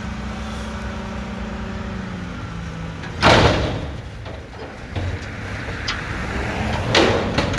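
Mack McNeilus front-loader garbage truck's diesel engine running with a steady drone, then two sudden loud hisses of air, one about three seconds in and one near the end.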